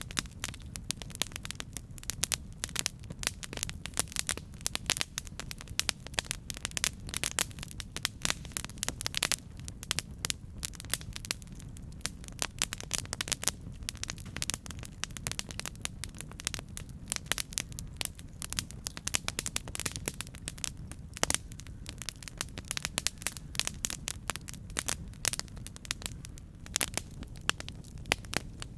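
Campfire crackling: a dense run of sharp pops and snaps, several a second, over a low steady rumble of the burning wood.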